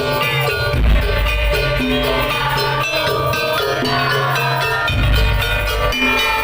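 Madurese daul (tong-tong) ensemble music with very loud, deep held bass notes, strongest about a second in and again about five seconds in, under melodic lines and percussion.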